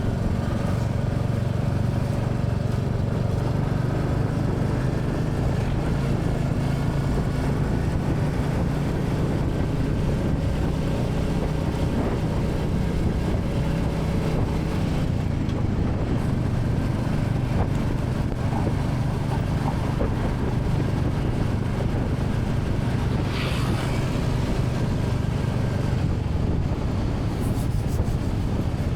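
Royal Enfield Classic 350's single-cylinder engine running steadily while the motorcycle is ridden, with wind noise on the microphone.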